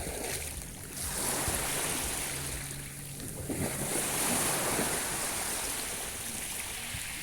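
Sea waves washing in, with the surf noise swelling twice, about a second in and again around four seconds in.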